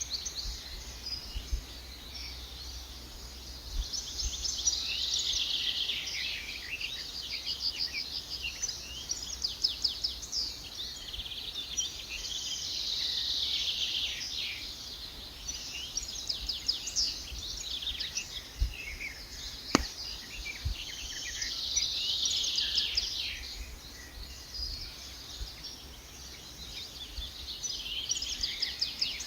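Birds singing in repeated fast trilling phrases about every eight seconds, with occasional sharp crackles from a campfire.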